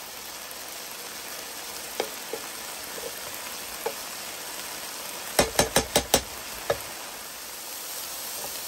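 Riced cauliflower and diced Spam sizzling steadily in a nonstick skillet while being stirred with a wooden spatula. A little past halfway comes a quick run of about five sharp knocks of the spatula against the pan, then one more.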